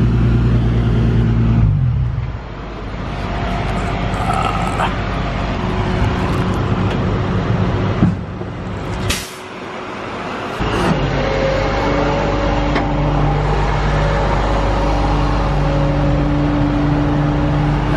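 Tow truck engine running with a steady hum. It changes and drops away about 2 s in, then picks up again strongly a little past halfway. A sharp knock and a short hiss come just before it picks up.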